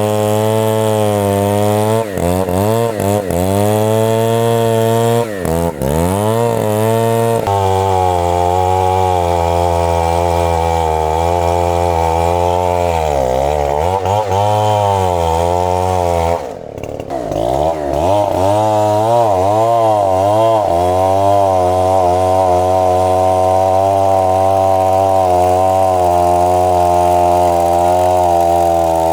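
Two-stroke chainsaw cutting into a very thick tree trunk, its engine labouring under heavy load. The pitch wavers and dips several times as the chain bogs down in the wood, dropping sharply and briefly about seventeen seconds in before revving back up.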